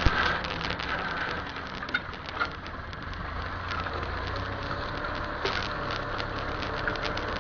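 Massey Ferguson tractor running with a steady low engine drone while working with a plough, overlaid by many small irregular crackles and ticks.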